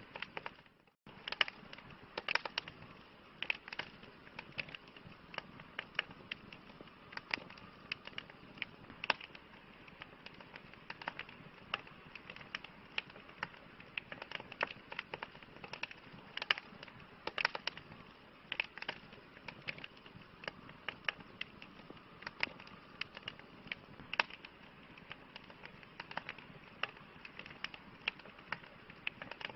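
Campfire crackling: frequent sharp pops and snaps at irregular intervals over a steady low hiss of burning, with a brief break in the sound about a second in.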